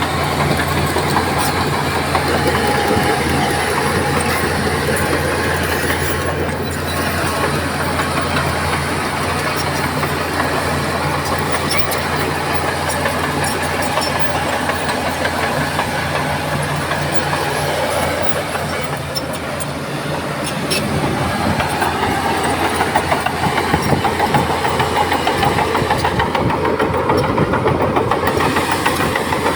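Heavy diesel engine of earthmoving machinery running steadily, with a deep, even drone. It eases off briefly about two-thirds of the way through, then picks up again a little louder.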